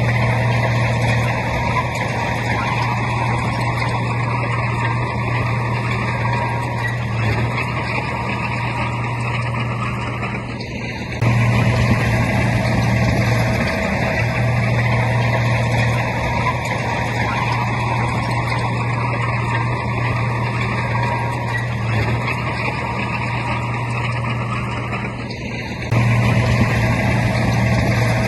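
Heavy diesel engine of a bulldozer running steadily. It turns suddenly louder about eleven seconds in and again near the end, then eases back.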